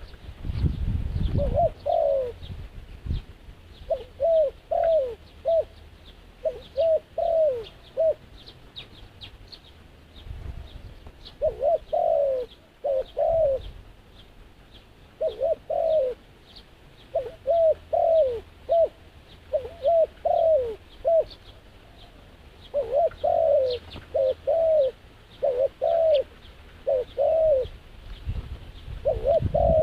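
Doves cooing in repeated phrases of two or three falling notes, with pauses of a second or more between phrases. Thin high chirps of small birds sound throughout, and there is a low rumble in the first couple of seconds.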